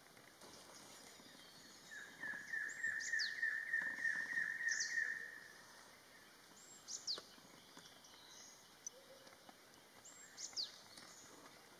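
Wild birds calling. A run of about a dozen quick repeated notes, about four a second, lasts roughly three seconds, and three thin falling whistles are spread through the rest, over a faint steady hiss.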